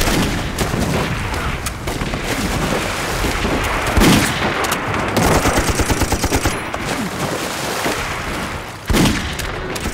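Heavy gunfire in a battle: continuous rapid machine-gun and rifle fire, with a louder shot about four seconds in and another near the end.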